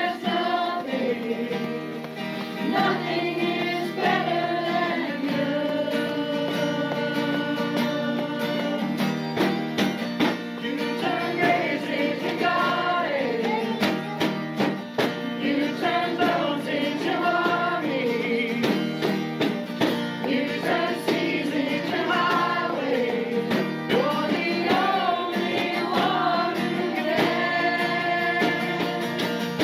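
Congregation and worship band singing a praise song, voices together over guitar accompaniment with a steady beat.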